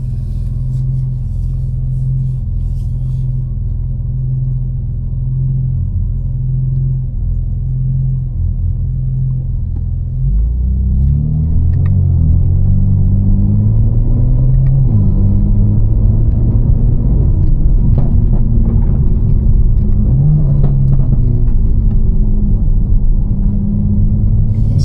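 Tuned BMW M4 Competition's twin-turbo straight-six with a catless exhaust, running steadily at low revs, then pulling harder from about ten seconds in, louder, its pitch rising and falling back several times.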